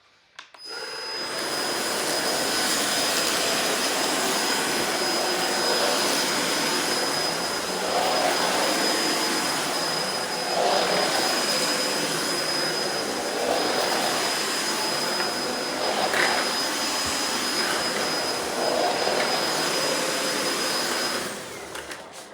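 Hoover ONEPWR Emerge Plus battery stick vacuum switching on about half a second in and running steadily with a thin high whine, then switching off near the end. Its sound swells slightly about every three seconds as it works over a tile floor.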